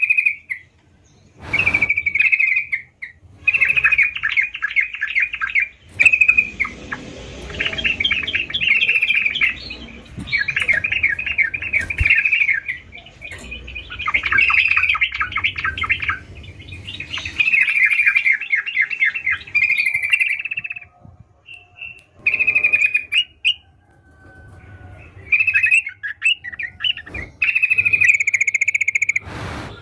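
Yellow-vented bulbul (trucukan) singing: bubbly phrases of rapid chirping notes, each a second or two long, repeated with short pauses, with a few sharp clicks between them.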